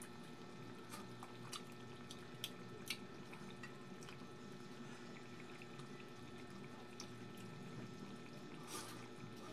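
A person chewing and eating with the fingers: a few sharp, wet mouth clicks and lip smacks, several in the first three seconds and a cluster near the end, over a steady low hum.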